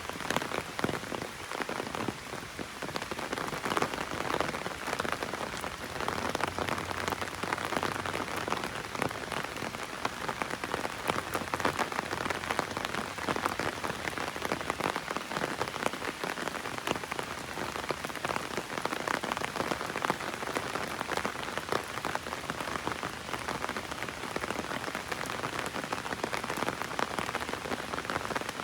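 Heavy rain drumming on an umbrella overhead: a dense, steady patter of raindrops with no letup.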